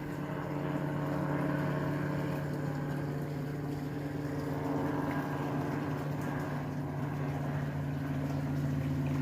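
A machine running with a steady low drone.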